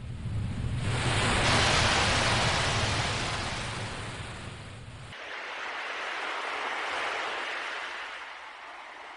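Sea waves washing in and receding, two slow swells of surf noise. A low rumble under the first swell drops out abruptly about five seconds in.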